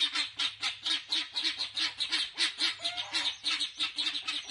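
Guinea fowl calling in a rapid, harsh chatter of short repeated notes, about five a second.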